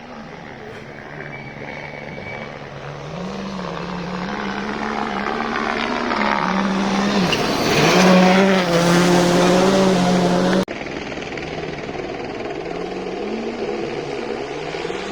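Rally car engine at full throttle, climbing and dropping in pitch with each gear change as it closes in and passes loud, about eight seconds in. The sound cuts off suddenly a couple of seconds later and another rally car is heard working through its gears.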